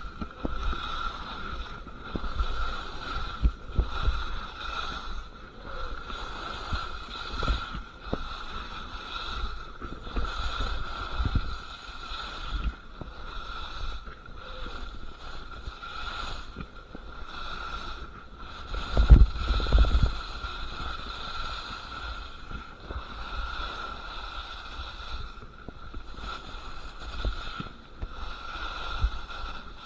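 Skis scraping and carving down a very steep slope of hard, icy snow, a continuous rasping hiss that swells and fades with each turn, with wind buffeting the microphone in low rumbles, the loudest about two-thirds of the way through.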